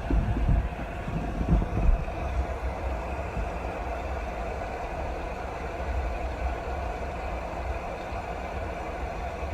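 Steady rain with a low rumble underneath, and a few low thumps in the first two seconds.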